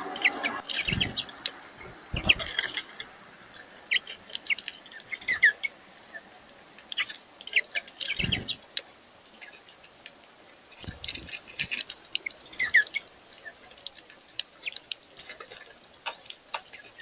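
Birds chirping in many short, scattered calls, with a few dull thumps now and then.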